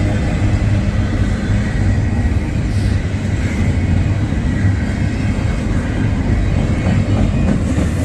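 CSX intermodal freight train with a diesel locomotive in the lead, running with a steady low rumble.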